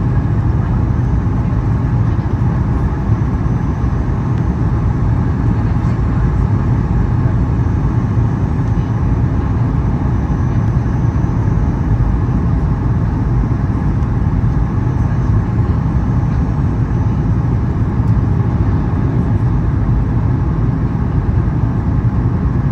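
Steady cabin noise inside a Boeing 737 MAX 8 airliner in flight: a low rumble from its CFM LEAP-1B engines under the rush of airflow over the fuselage, even throughout with no bumps or changes.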